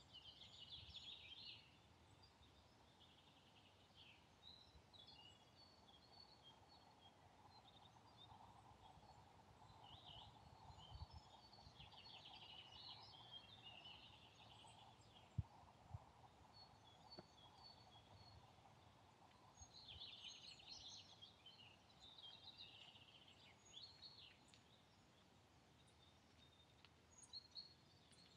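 Faint birdsong: scattered short chirps and calls from small birds over a quiet background, with a few soft knocks about halfway through.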